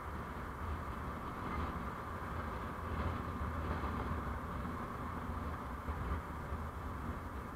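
Steady road and engine noise of a moving vehicle, a constant low rumble with no sudden events.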